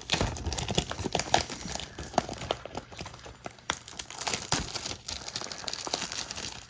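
Crinkling and rustling of plastic trading-card packaging (foil booster packs and wrapping) being handled, a dense run of irregular crackles.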